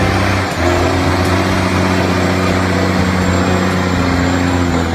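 A steady, loud vehicle engine rumble with a low hum, dipping briefly about half a second in.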